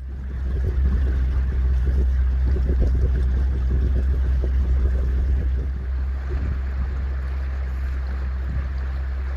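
A shanty boat's motor running steadily underway, a deep, even hum with a wash of water and wind noise over it. It eases off slightly about six seconds in.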